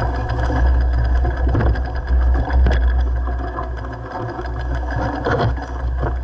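Mountain bike descending a dirt trail: a steady low rumble of wind on the microphone, over a continuous rattle of the bike's parts with small knocks from bumps in the trail.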